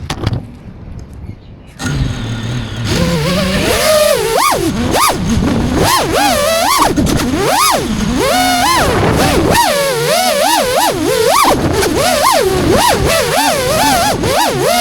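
FPV drone's motors and propellers whining, the pitch swinging rapidly up and down as the throttle changes. The whine comes in strongly about two seconds in, after a quieter start.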